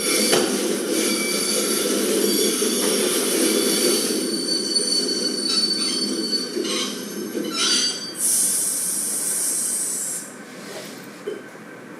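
Train sound effect for a stage play, played over speakers: a train pulling in, its wheels squealing on the rails with several high, steady squeal tones. Near the end comes a loud hiss lasting about two seconds, then the sound cuts off sharply.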